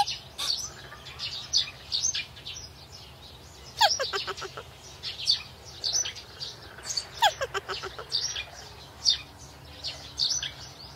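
Birds chirping: many short, high calls, with two longer calls about four and seven seconds in that fall in pitch.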